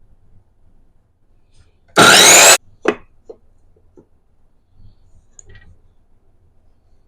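A single loud burst of about half a second from a tool working wood, rising in pitch, followed by a sharp knock and a few light clicks.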